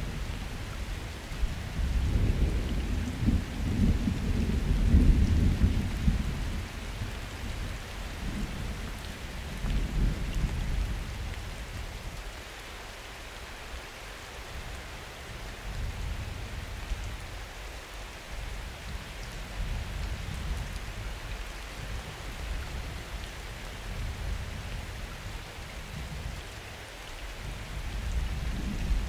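Summer thunderstorm: steady rain hiss with rolling thunder. A long, heavy rumble builds about two seconds in and peaks around five seconds. A shorter rumble comes around ten seconds. After that mostly rain is heard, with faint rumbling rising again near the end.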